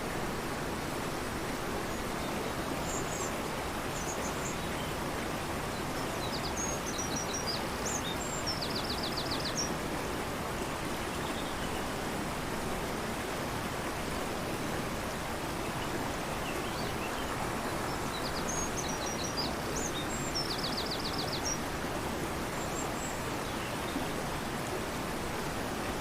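Fast-flowing river rushing steadily, with a songbird singing twice: each phrase a string of high chirps that ends in a quick trill.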